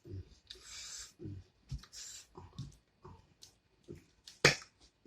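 Close-miked chewing and mouth smacking while eating fried chicken and fries: short, irregular wet sounds with a few brief crunchy bursts, and one sharp click about four and a half seconds in.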